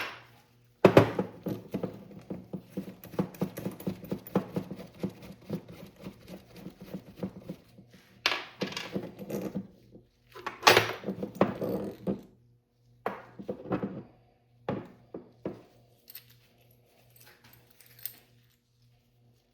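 Metal tools and small parts clinking and rattling, handled during a dirt bike shock linkage rebuild. A dense run of small knocks is followed by a few separate, louder rattles and faint clicks near the end.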